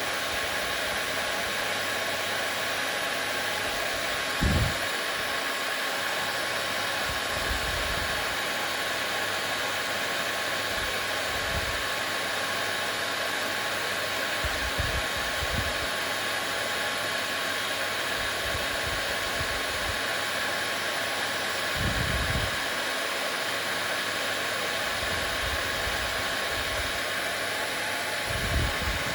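Hair dryer running steadily: an even rushing hiss with a faint steady whine. A few soft low thumps break in now and then, the loudest about four seconds in and near the end.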